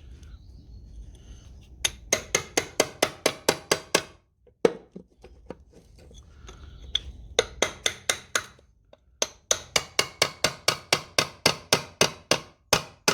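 Rapid hammer taps on metal, about four a second in three runs with a single knock between them, sharp and ringing: a stuck part of the International 584 tractor engine being tapped to break its gasket seal.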